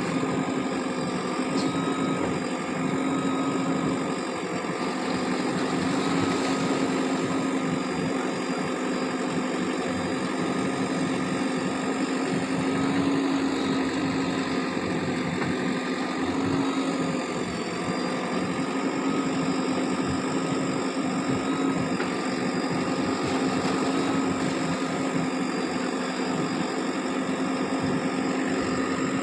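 JCB 3DX backhoe loader's diesel engine running steadily, its pitch wavering slightly.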